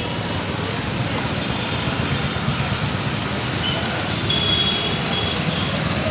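Steady city road traffic noise: a continuous mix of engines and tyres from vehicles moving through a traffic circle. A faint high tone sounds for about a second a little past the middle.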